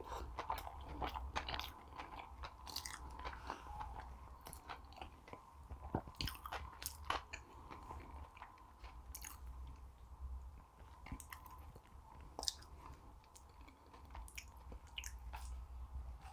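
Close-miked chewing and biting: irregular wet mouth clicks and smacks, several a second, over a steady low hum.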